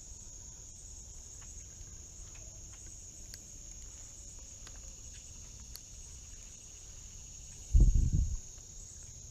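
Steady, high-pitched chorus of insects such as crickets. About eight seconds in there is a brief, loud low rumble.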